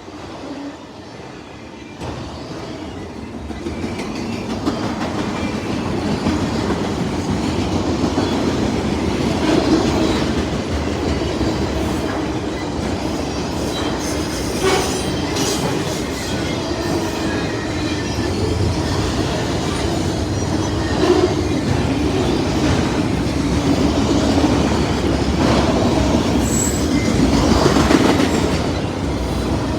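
Freight train of autoracks and intermodal cars rolling past: a steady rumble of wheels on rail with clickety-clack over the rail joints. It builds over the first few seconds, and a wheel squeals briefly near the end.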